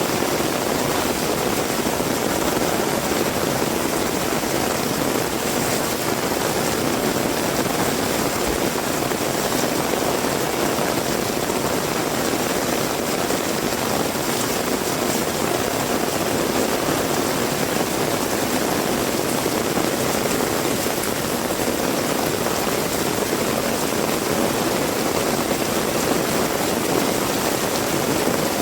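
Heavy rain falling steadily: a constant, even hiss with no breaks or single events.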